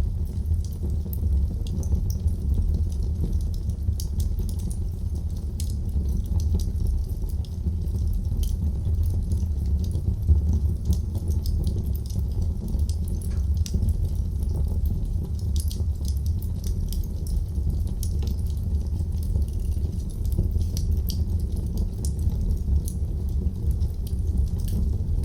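Wood fire burning in a fireplace: many small crackles and pops over a steady low rumble of the flames, with one louder pop about ten seconds in.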